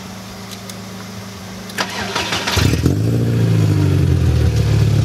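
1999 VW Golf Mk4 engine started by turning the ignition switch with a screwdriver in place of the removed key lock: a click just under two seconds in, a brief crank, then the engine catches, revs up and down, and settles into steady running.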